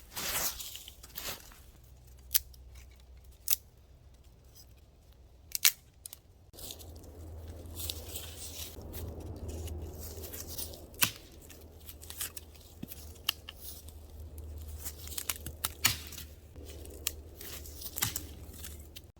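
Dry sticks and twigs being snapped by hand while gathering firewood: irregular sharp cracks, a dozen or more, amid rustling of brush.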